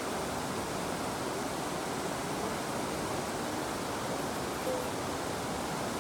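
River water flowing, a steady even rushing with no change in level.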